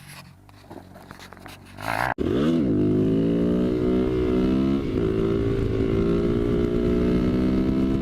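Motorcycle engine, starting abruptly about two seconds in with a quick rev up and down, then running loud and steady at a high, nearly constant speed.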